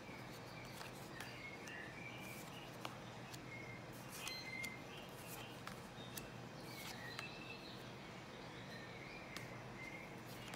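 Faint, scattered bird chirps, short and high, over a low steady background hum, with a few light taps of stiff tarot cards being laid on a pile.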